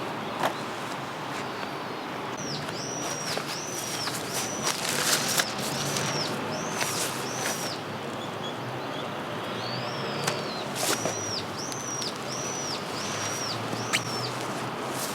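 A songbird calling two runs of short, arched high notes, several a second, over a steady hiss with scattered sharp ticks.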